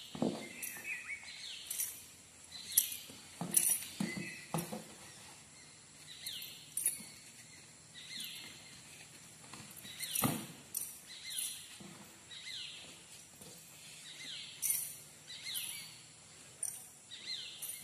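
Birds calling, a short call sliding down in pitch, repeated irregularly about once a second, with a few dull knocks.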